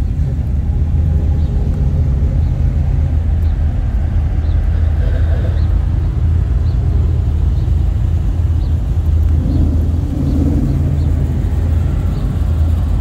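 Car engine running nearby with a steady low rumble.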